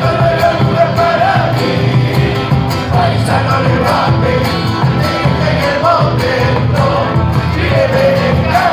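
Argentine folk group playing a chacarera: voices singing together over guitars and a steady drum beat.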